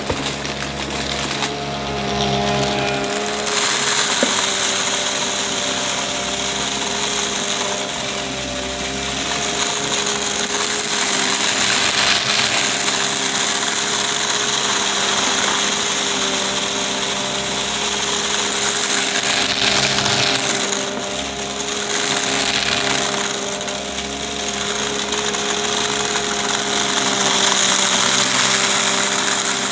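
Upright vacuum cleaner running: a steady motor whine under a loud hiss of rushing air, which gets louder a few seconds in and dips briefly twice later on.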